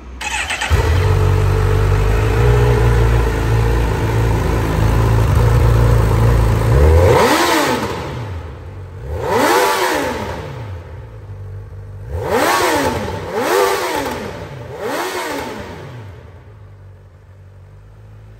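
Honda CB 1000R's inline-four engine starting up and idling steadily, then revved five times about seven seconds in, each rev rising and falling back to idle, before settling and fading near the end.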